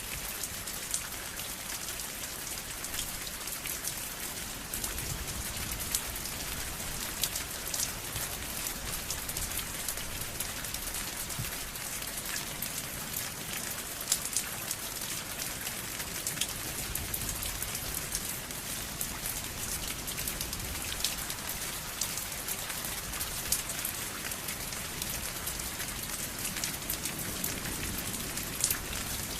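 Steady rain falling and pattering on a surface, with individual drops ticking sharply and irregularly over an even hiss.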